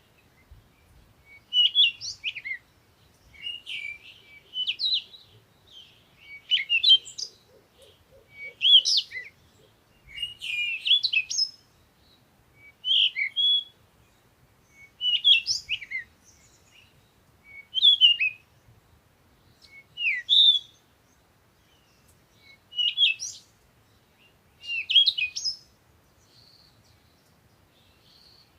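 A songbird singing short, warbled phrases of about a second each, repeated every two seconds or so, with a few faint single notes near the end.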